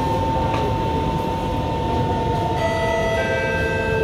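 Kawasaki C151 train running, heard from inside the car: a steady rumble with a motor whine. About two and a half seconds in, several higher steady tones join in, and a lower tone falls slowly in pitch.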